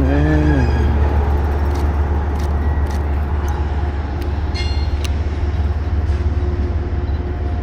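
Steady low rumble of a train in motion, with scattered sharp clicks and a brief high squeal about four and a half seconds in.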